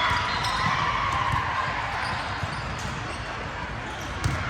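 Volleyball gym noise: background crowd chatter with scattered thuds of the ball and players' feet on the court, and one sharper hit near the end.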